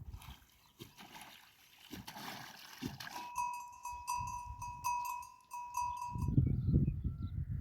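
A livestock bell, as worn by sheep or goats, clanking with the animal's movement: about eight ringing strikes on one clear note over some three seconds, after a soft rushing noise. Low rumbling noise follows near the end.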